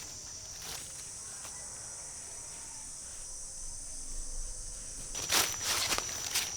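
Insects trilling in a steady high drone, with a few sharp rustling crunches near the end, like footsteps or handling in leaf litter.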